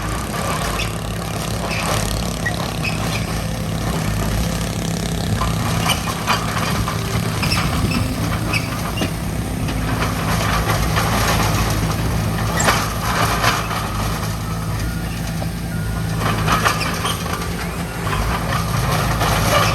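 Diesel engine of heavy construction machinery running steadily, with occasional short metallic clanks.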